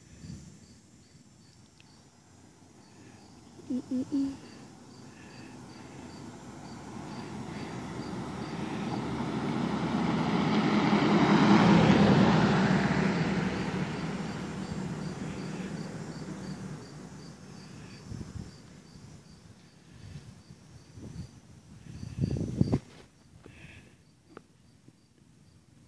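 Crickets chirping steadily, about two chirps a second, while a broad rushing noise swells up over several seconds, peaks about twelve seconds in and slowly fades away.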